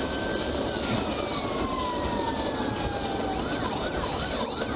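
Police car siren wailing: a held tone that slides slowly down in pitch, over steady road and engine noise.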